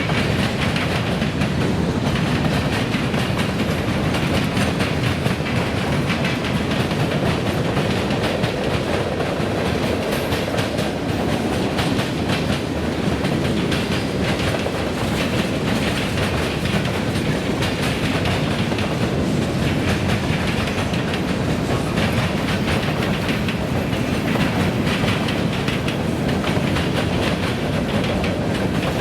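Freight train cars rolling steadily past, with a continuous rumble and the rapid clickety-clack of wheels over the rails.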